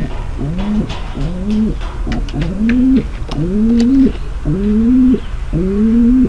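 Domestic pigeon cooing in a steady series of short, low coos, each rising then levelling off, more than one a second. The uploader presents it as a female pigeon's mating call.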